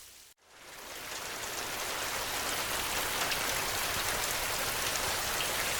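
Steady heavy rain, a dense hiss with fine drop ticks. The sound dips out to silence briefly near the start, then fades back in over about a second.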